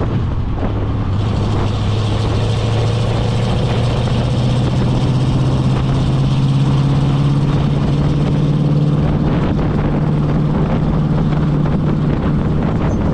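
Chevy K20 pickup's 350 small-block V8 running under load through glasspack exhaust, with wind and road noise. The engine note holds steady, then climbs slowly as the truck picks up speed.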